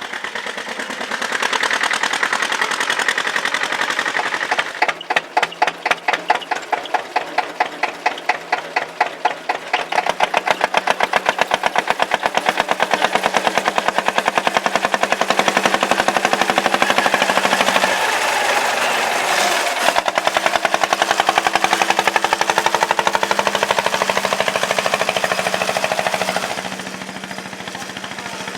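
Tractor engine running under way, beginning with slow, separate chugs about three a second that quicken into a steady run. It dips briefly about two-thirds of the way through, then picks up again and falls off in level near the end.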